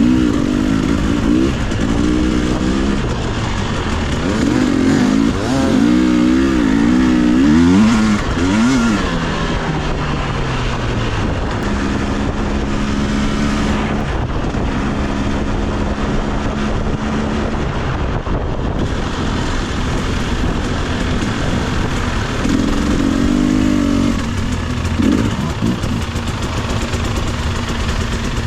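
Dirt bike engine running under rider's throttle on a rough trail, the pitch swinging up and down in quick blips several times and holding steadier for a few seconds near the middle.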